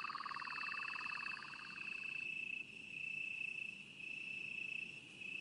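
Night insect chorus: crickets trilling steadily on one high note. For the first two seconds a lower, rapidly pulsed trill runs with them, then stops.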